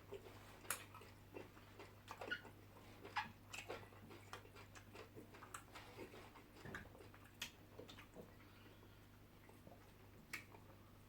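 Faint eating sounds: scattered wet mouth clicks and smacks of close-up chewing on tough cow meat, thinning out in the second half.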